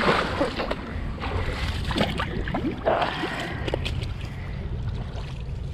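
Creek water splashing and sloshing as a person moves about in it, loudest at the very start.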